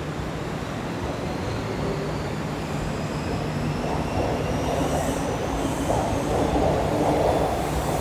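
Kintetsu 6020-series electric commuter train pulling out along the platform and passing close by. Its motor whine rises slowly in pitch as it gathers speed, and the rumble of wheels on the track grows louder from about halfway through.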